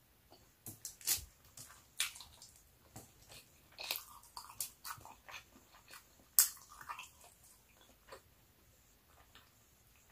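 Mouth sounds of eating rice and pork adobo by hand: irregular sharp smacks and clicks of chewing, the loudest about six seconds in.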